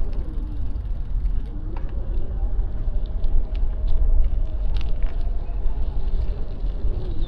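City street traffic heard from a moving bicycle: motor vehicles running nearby over a steady low rumble, with faint voices and a few light clicks.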